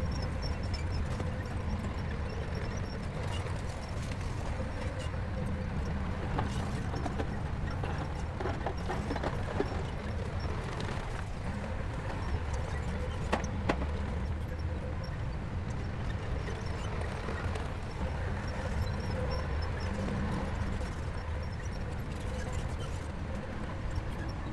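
Shantui bulldozer's diesel engine running in a steady low rumble, with scattered short metallic clanks and one sharper knock about halfway through.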